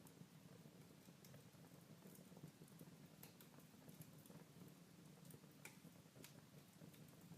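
Faint crackling of a fire in a fireplace: irregular small pops and ticks over a low steady hum.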